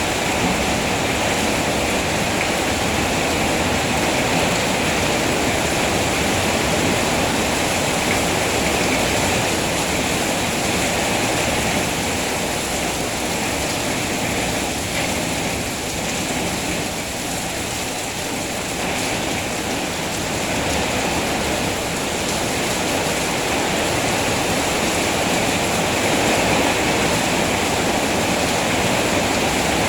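Rain falling steadily, a dense, even hiss with no separate drops standing out.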